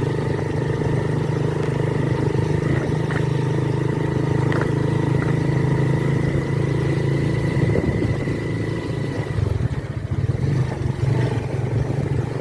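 A vehicle's engine running at a steady speed with a hiss of heavy rain over it, and a few faint clicks about three to five seconds in.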